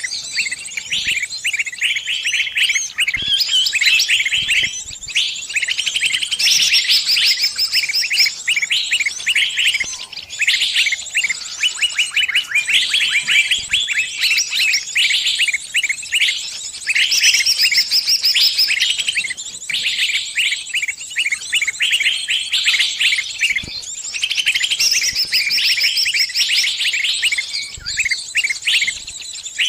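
Small bird's distress calls, as of a bird caught and pinned: a continuous stream of rapid, high-pitched chirps and short trills.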